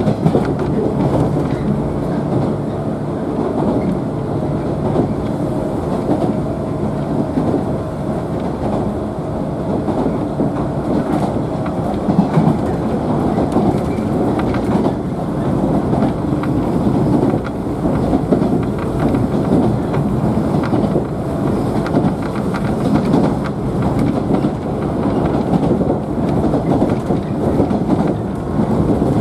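Running noise heard inside the motor car of a JNR 113 series electric train travelling at speed: a steady rumble of wheels on rail with a low hum and an occasional clack from the rail joints.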